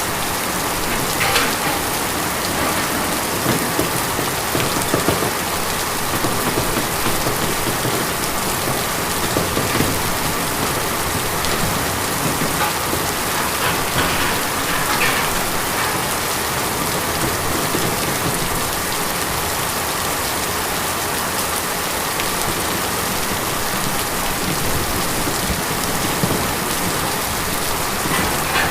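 Steady rain falling on a tin roof, with a few louder single drops standing out now and then.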